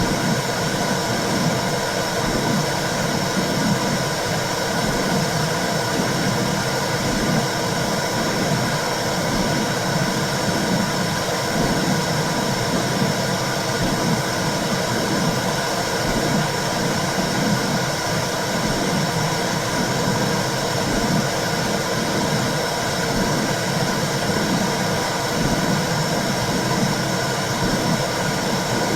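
Womb sound for soothing a baby: a steady whooshing hiss with a low, rhythmic pulsing under it.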